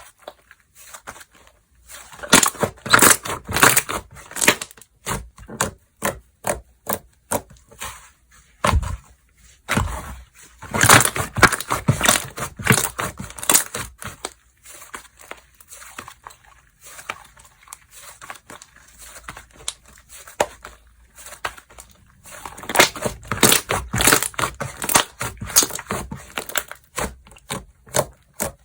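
Slime being squished, stretched and pressed by hand, giving dense runs of crackling, popping clicks in three busy spells with quieter handling between.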